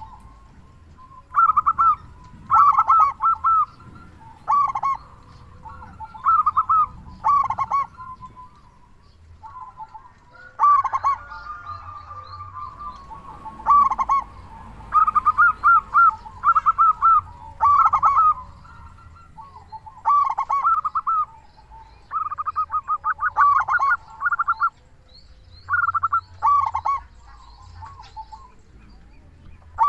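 Zebra dove (perkutut) cooing in repeated bursts of quick, rolling notes, with a pause of a second or two between bursts.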